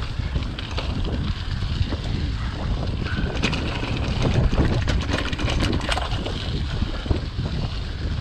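Wind buffeting the microphone as a steady low rumble while riding a mountain bike, with sharp clicks and rattles between about three and six seconds in.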